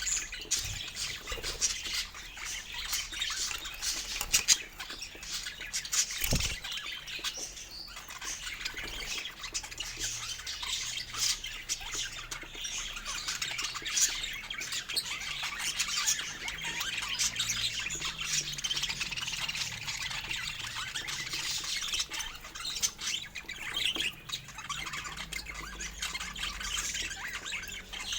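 Several budgerigars chattering and squawking without pause, a dense stream of short high chirps and calls.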